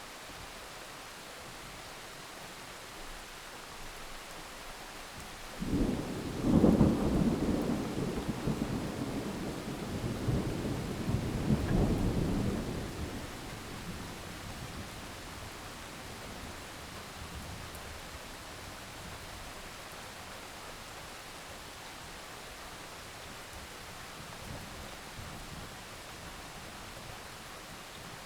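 Steady heavy rain, with a sudden clap of thunder about six seconds in that rumbles on for several seconds, swells again, then fades back under the rain.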